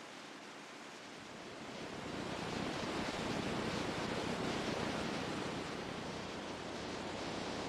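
Ocean waves rushing, a surge swelling up about two seconds in and washing on steadily.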